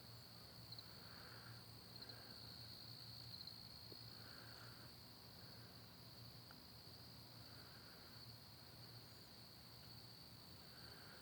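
Near silence with a faint, steady high-pitched insect trill, typical of crickets at night, and a softer call repeating every couple of seconds beneath it.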